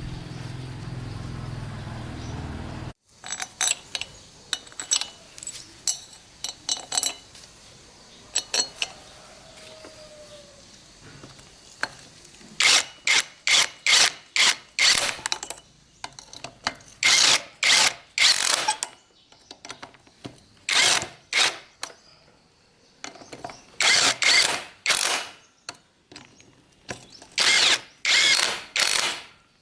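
Hand tool working on metal engine parts in rapid strokes, about three a second, coming in runs of four to eight with short pauses between. Lighter clicks come first. A steady low hum runs for the first few seconds and cuts off suddenly.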